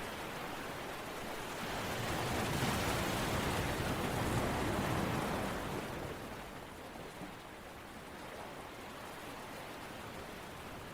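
Steady rushing water noise from a relaxation soundscape. It swells louder about two seconds in and eases back down after about five seconds.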